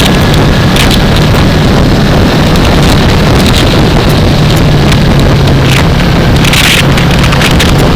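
2015 Yamaha R3's parallel-twin engine running at a steady cruise under heavy wind buffeting on a helmet-mounted microphone.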